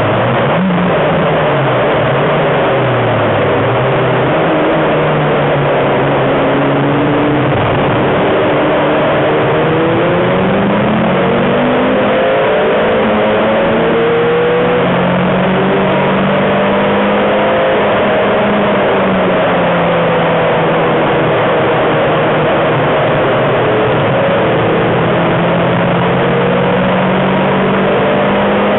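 Renault Twingo RS's 1.6-litre four-cylinder engine heard from inside the cabin at track speed, its pitch climbing and falling several times as it accelerates, shifts and slows for corners. A steady hiss of road and wind noise runs under it.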